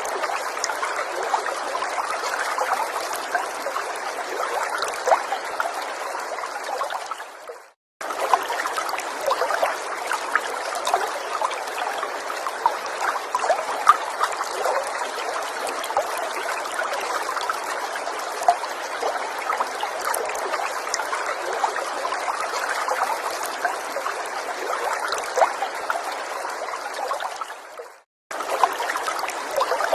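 Forest stream trickling steadily. It fades briefly to silence twice, about eight seconds in and again near the end, then cuts straight back in.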